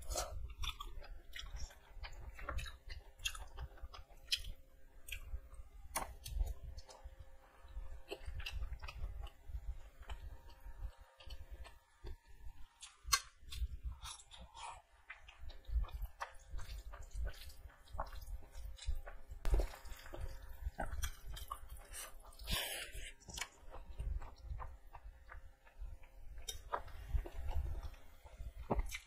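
Close-up chewing and wet mouth sounds of a person eating rice and boiled egg with curry by hand, a steady run of soft, sticky clicks as she chews.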